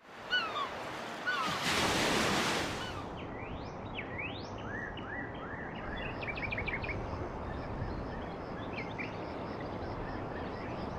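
Small birds chirping and calling with quick rising and falling notes over the steady wash of surf, with a fast run of chirps about six seconds in. A wave surges in, the loudest sound, about two seconds in.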